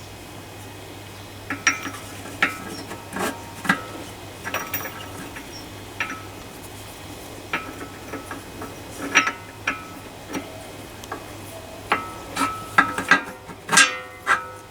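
Metal parts and tools clinking and knocking together while being handled, many separate sharp strikes, some ringing briefly, busiest near the end. A steady low hum runs underneath.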